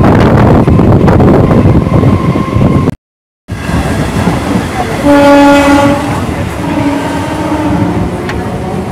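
Suburban electric train running, a loud rumble and rattle of wheels on the track heard from the open doorway, cutting out for a moment about three seconds in. About two seconds later a train horn sounds for about a second, followed by a shorter, fainter blast.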